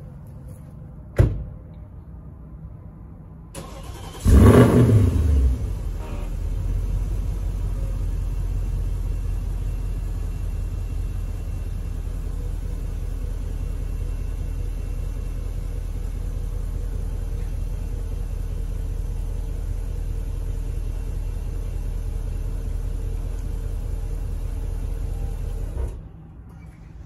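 2013 Porsche Cayenne GTS's 4.8-litre V8 cold-starting about four seconds in: a loud flare of revs that settles within a couple of seconds into a steady idle, which cuts off suddenly near the end. A sharp thump about a second in, as the driver's door shuts.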